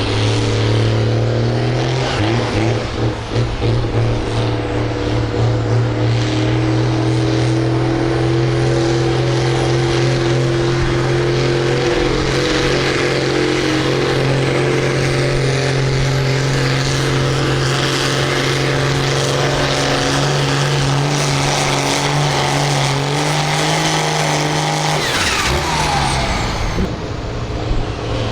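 Farm stock tractor engine running hard under load while pulling the sled. Its pitch creeps slowly up, then drops sharply near the end as the throttle comes off.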